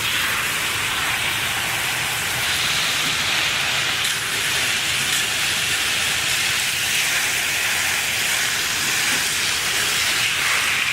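Garden hose spray nozzle spraying water onto potted plants: a steady hiss that starts suddenly and holds evenly.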